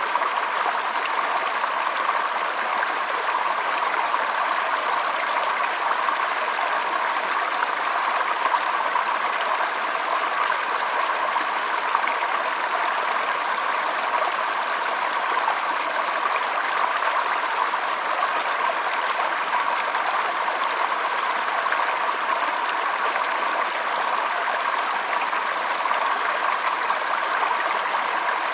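Shallow stream flowing, a steady, even trickling rush of water with no deep rumble.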